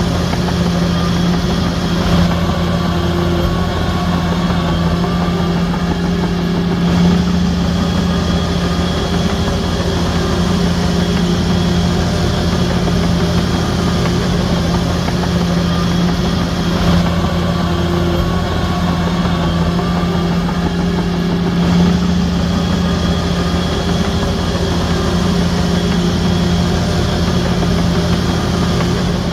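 Bulldozer diesel engine running steadily under load with a deep hum, its note shifting slightly every few seconds. A fainter higher whine rises and falls twice.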